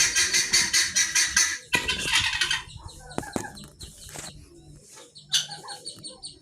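Ornamental chickens clucking: a fast, even run of repeated calls for the first second and a half, then a longer call about two seconds in, followed by scattered short clucks.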